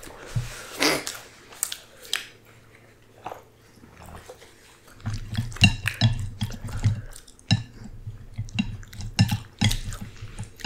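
Close-miked chewing and mouth sounds of people eating, with sharp clicks of utensils against dishes. They get busier from about halfway through.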